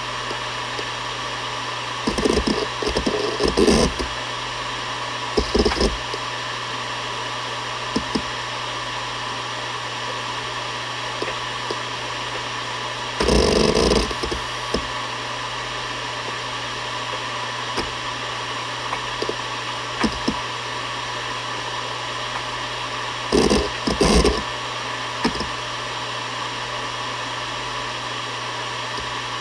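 Seagate Barracuda ES.2 ST31000340NS 7200 rpm hard drive spinning with a steady hum and whir, broken four times by short bursts of head-seek chatter, about two seconds in, near six seconds, around thirteen seconds and near twenty-four seconds, with a few single clicks between.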